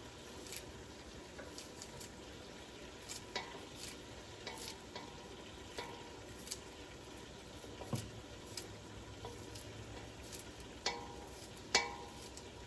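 Chicken and vegetables sizzling in a pot while a utensil stirs them, clinking and tapping against the pot a dozen or so times, with the sharpest clinks near the end.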